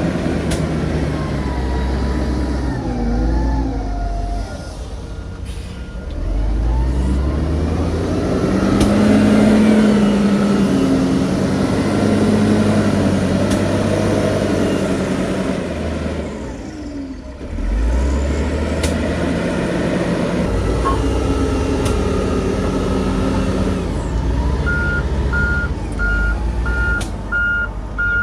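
Heavy diesel earthmoving machinery working, engines revving up and down under load. Near the end a reversing alarm beeps steadily, about twice a second.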